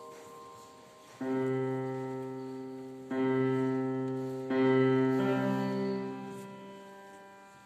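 Piano playing three chords, struck about a second in, at about three seconds and at about four and a half seconds, each left to ring and fade slowly: the piano part of a piece for flute and piano, with the flute resting.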